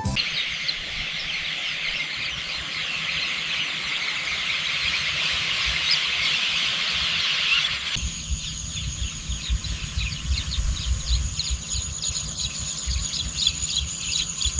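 Field ambience of chirping insects and birds, a dense high chatter. About eight seconds in it changes to a steady high-pitched insect buzz with rapid chirps over a low rumble.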